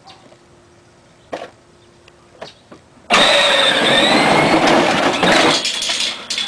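Toy truck playing its electronic engine-start sound effect: a few light clicks, then a loud, sudden engine noise about three seconds in with a wavering high tone over it, fading after about two and a half seconds.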